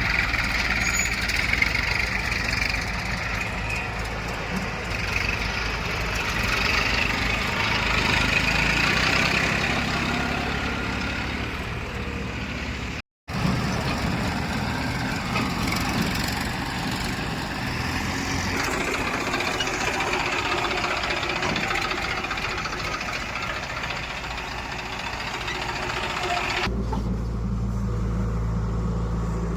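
Diesel engines of a backhoe loader and tractors running at a dig, with a steady low engine hum under the noise of the work. The sound cuts out completely for a moment about a third of the way through, and shifts to a quieter, duller engine sound near the end.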